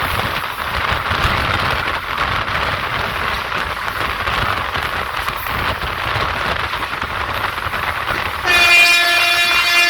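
Passenger train running with a steady rumble, then near the end the locomotive's horn starts: one loud, steady, held blast.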